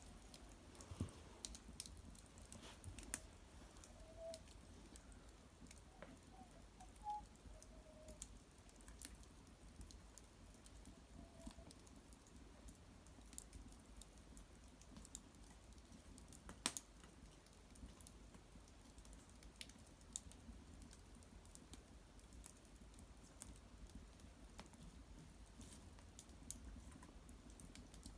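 Wood fire of cedar branches and bark in an irori hearth, crackling quietly with sparse, irregular pops and ticks, one sharper pop about two-thirds of the way in. A few faint short whistles sound in the first half.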